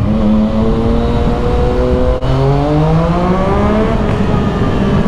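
Yamaha MT-09's three-cylinder engine through a decatted Arrow full exhaust, accelerating hard with its pitch rising, a quick upshift with a brief cut from the up-only quickshifter about two seconds in, then rising again and levelling off near the end. It sounds inside a concrete road tunnel.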